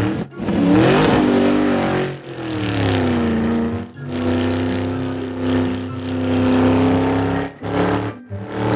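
An engine running and revving, its pitch rising about a second in and falling again, then holding steady. It is broken by several abrupt cuts.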